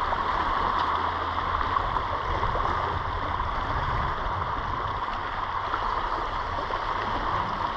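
Steady rushing water noise of the sea on a rocky shore, with a low, uneven rumble underneath.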